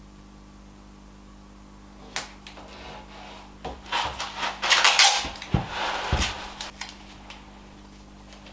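Knocks and clatter of pieces and tools being handled on a workbench, in a burst that is loudest about five seconds in, with a couple of deeper thuds. No saw or other machine is running.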